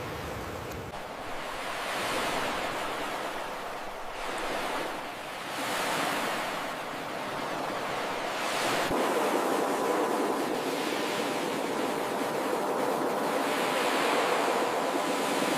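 Ocean surf washing ashore in repeated swells, each rising and falling over a couple of seconds. A faint steady hum comes in about nine seconds in.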